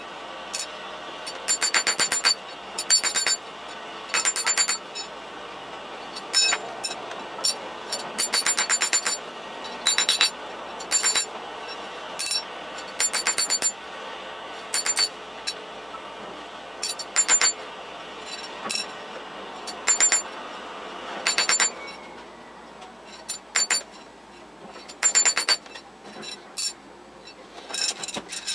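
Metal being machined on a lathe: a steady running noise broken by repeated short bursts of high-pitched metallic ringing, irregularly spaced, each with the same piercing tones. The running noise drops partway through.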